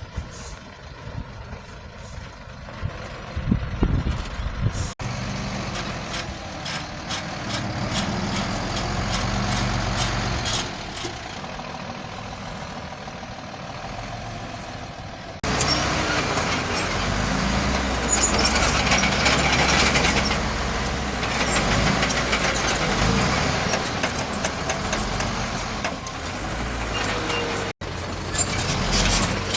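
Diesel engines of heavy earthmoving machinery (a bulldozer and dump trucks) running under load, a steady low drone with clatter and hiss. The sound changes abruptly three times.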